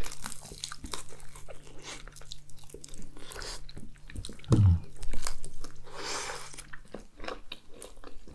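Close-up eating sounds of roasted chicken drumsticks being bitten and chewed, with many wet mouth clicks and smacks. A brief low vocal sound comes about four and a half seconds in.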